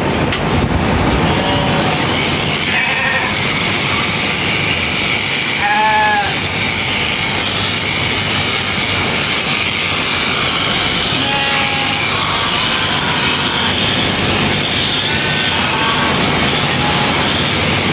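Sheep bleating over a steady mechanical buzz of shearing clippers. One loud bleat comes about six seconds in, and fainter bleats follow later.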